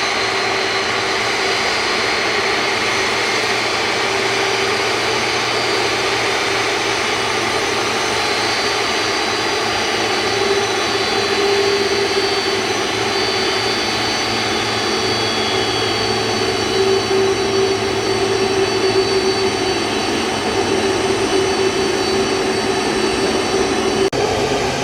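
Jet airliner engines running, a steady broad rush with a high held whine over it.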